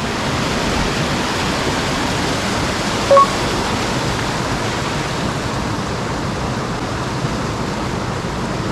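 Mountain headwater stream rushing over rocks in a steady, even wash of water noise. A brief short chirp-like tone sounds once about three seconds in.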